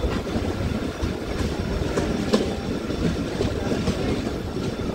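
Steady rumble and clatter of a moving passenger train, heard from an open coach doorway, with a few sharp, irregular clacks of the wheels over the track.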